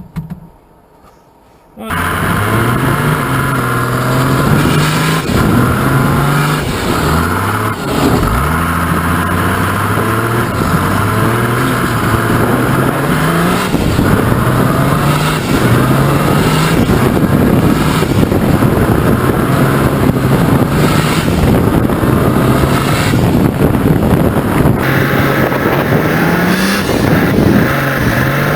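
Mercedes OM603 straight-six turbo diesel with a twin turbocharger, in a 1941 GMC CCKW 6x6 army truck, revving hard. The revs climb and fall back over and over, starting suddenly about two seconds in.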